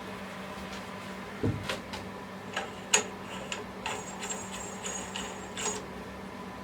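A series of irregular clicks and knocks from hard objects being handled, the loudest about three seconds in, with a faint high squeak or whine on and off through the middle, over a steady low hum.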